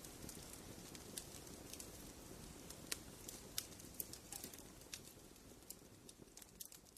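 Wood fire in a fireplace crackling: scattered sharp snaps and pops over a soft low rustle of burning, growing fainter toward the end.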